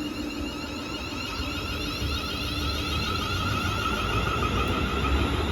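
Class 380 electric multiple unit pulling out of the station, a steady high electric whine over a low rumble of wheels that grows louder through the second half.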